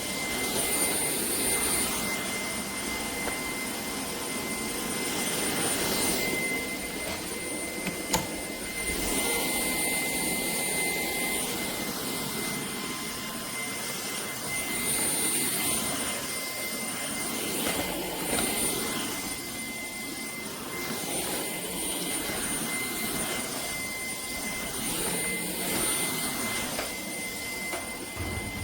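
Shark cordless vacuum running: a steady rush of air with a high motor whine, the loudness swelling and easing a little, and a single sharp click about eight seconds in.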